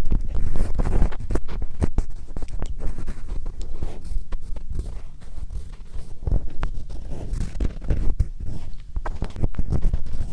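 ASMR scratching right against a microphone: a dense run of fast, irregular scratchy strokes and clicks with deep thuds from the microphone being rubbed.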